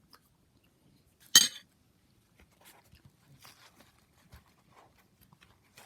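A single sharp clink of tableware about a second in, ringing briefly, followed by faint small clicks and rustles of dishes being handled.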